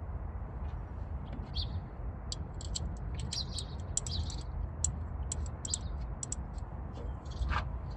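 Small bird chirping: a quick series of short, sharp chirps, thickest in the middle of the stretch, over a steady low rumble.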